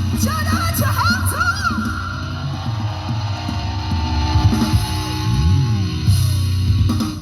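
Live rock band with a woman singing, played loud over a concert sound system; the music cuts off suddenly near the end.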